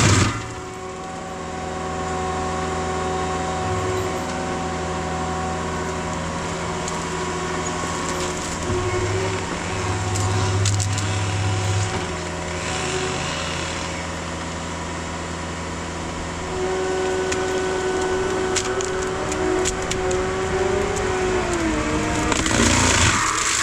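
Heavy tracked machine's diesel engine running steadily under load, with scattered cracks and snaps of wood being broken. Near the end the engine note drops.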